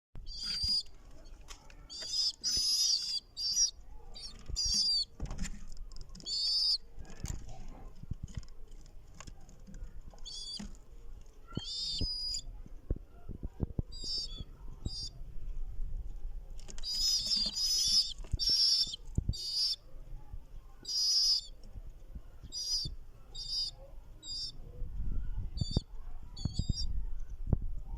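Pigeon chicks (squeakers) squeaking: high-pitched cheeps in short bursts and runs, repeated over and over, with scattered low knocks underneath.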